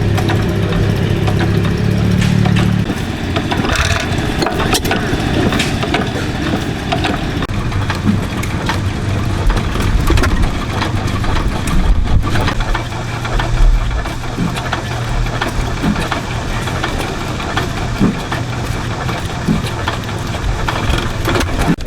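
Antique gas engines running: a steady low drone with scattered short knocks.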